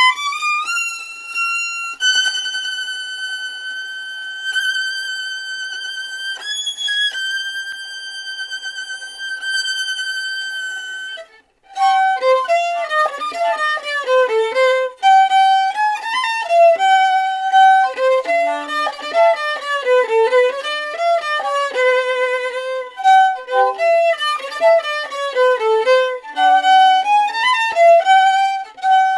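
Solo violin playing: long, high held notes with vibrato, then after a brief break about eleven seconds in, a quicker passage of short notes running up and down.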